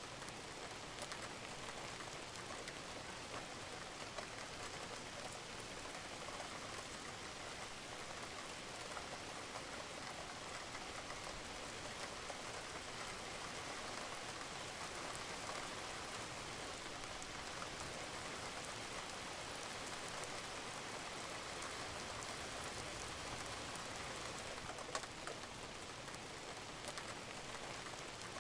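Steady rain falling on a roof, with scattered single drips ticking sharply above the even patter.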